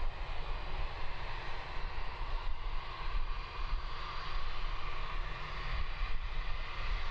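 Distant jet airliner engines at taxi power, a steady whine over a low, uneven rumble.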